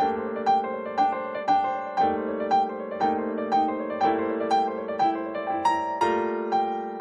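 Background piano music, with notes struck at a gentle, even pace of about two a second over held chords.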